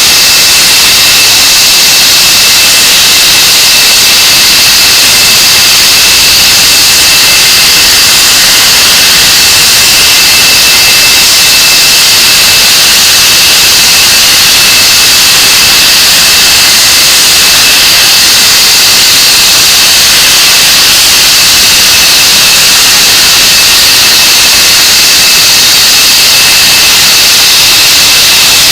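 English Electric Lightning's Rolls-Royce Avon turbojet running on a ground run: a loud, unchanging rush of jet noise with a steady high-pitched turbine whine over it.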